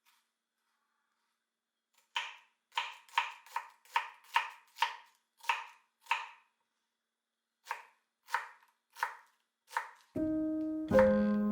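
Knife chopping on a cutting board in sharp, even strokes about two a second, in two runs with a short pause between. Piano music comes in near the end.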